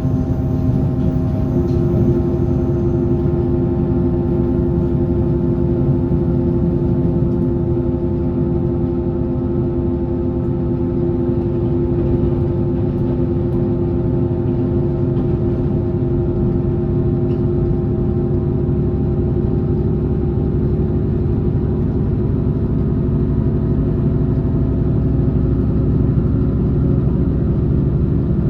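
Onboard running sound of an electric passenger train at steady speed: a continuous wheel-on-rail rumble with a steady motor hum over it.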